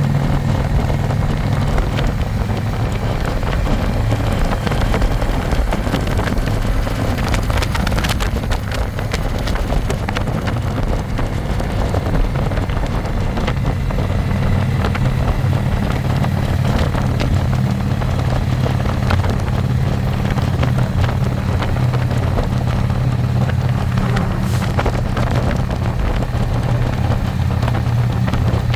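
Harley-Davidson Electra Glide's V-twin engine running steadily under way, heard from the pillion seat with wind rushing over the microphone. The engine note grows stronger about halfway through.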